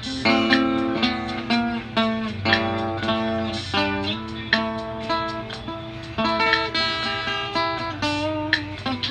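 Guitar music: a run of plucked notes over a steady low bass note.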